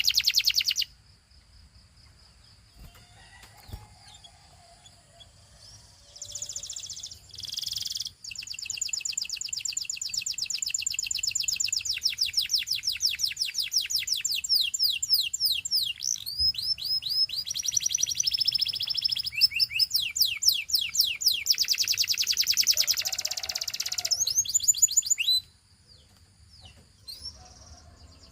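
Domestic canary singing: long song made of fast runs of repeated high notes, one trill after another. It starts about six seconds in after a near-pause and stops abruptly about three seconds before the end.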